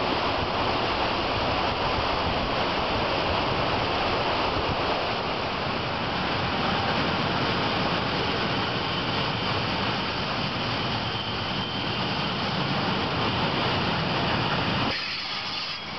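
Steady rushing noise of a freight train's wagons rolling past close by, mixed with surf breaking on the rocks below.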